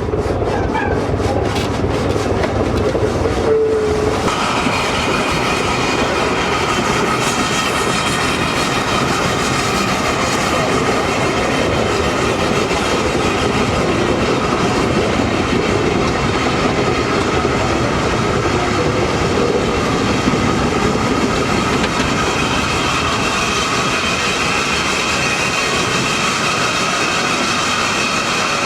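A train running along the track with a steady rumble and rail clatter. About four seconds in, a steady high whine sets in and then holds.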